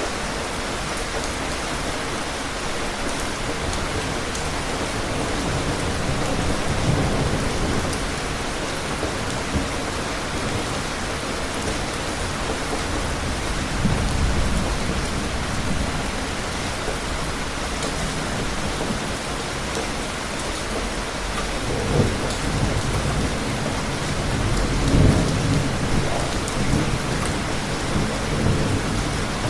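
Steady rain hissing, with several low rumbles of thunder rolling in and out; the loudest comes about three-quarters of the way through.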